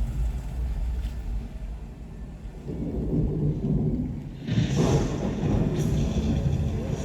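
Deep thunder-like rumble, joined about four and a half seconds in by a loud rushing hiss.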